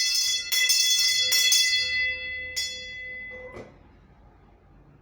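A metal bell struck about five times in quick succession, its ringing tone hanging on and fading out about three and a half seconds in.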